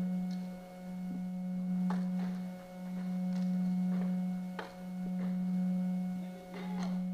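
A steady low hum that swells and fades about every two seconds, with scattered faint sharp cracks, as of paintball markers firing at a distance.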